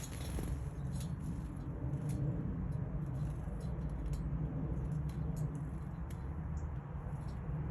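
Small birds pecking and clinging at a peanut feeder: irregular light clicks and ticks over a steady low rumble.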